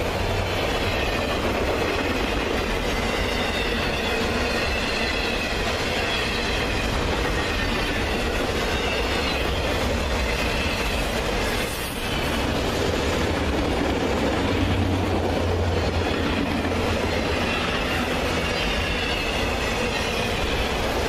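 CSX freight train's cars rolling past at speed: a steady rumble and clatter of wheels on rail, with a faint wavering wheel squeal over it. The noise dips briefly about twelve seconds in.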